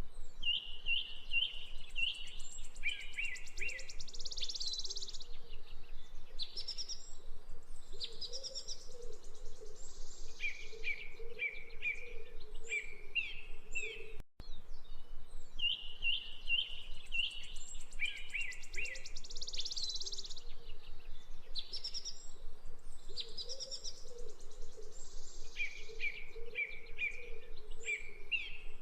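Wild birds singing and calling: quick high chirps and trills in short runs, over a lower wavering call. The same stretch of song repeats after a brief cut about halfway through.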